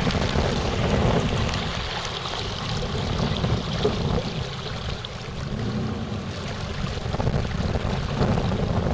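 A small motorboat's engine running steadily as the boat travels, with wind rushing on the microphone and water washing against the hull.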